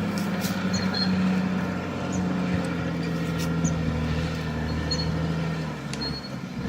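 Caterpillar D6R XL crawler dozer's diesel engine running under load, its pitch shifting a little and dipping briefly near the end, with a few sharp clicks.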